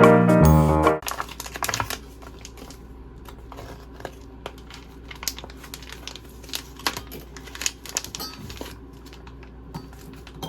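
A music jingle ends about a second in; then a kitten eating, with quick, irregular chewing clicks and smacks.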